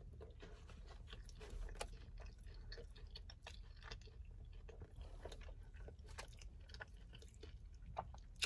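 Close-miked chewing of a mouthful of sauced, battered honey chicken: faint, irregular wet chewing clicks and smacks over a low steady hum.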